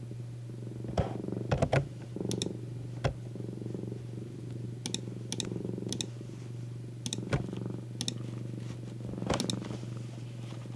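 Domestic cat purring steadily, with about a dozen sharp clicks scattered through it, some in quick clusters.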